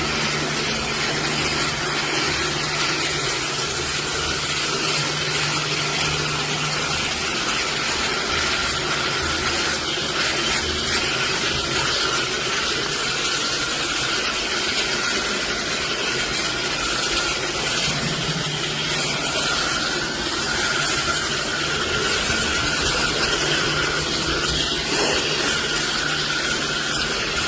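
Pressure washer spraying water in a steady hiss, its motor humming underneath; the hum drops out about a quarter of the way in and comes back after about ten seconds.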